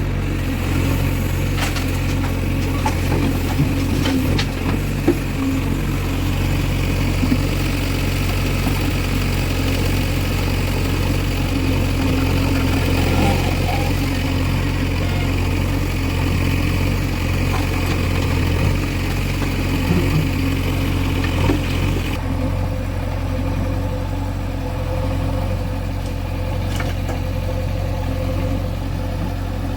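Heavy diesel engine running at a steady low speed, with a few sharp knocks and clanks over it; the higher part of the sound drops off about two-thirds of the way through.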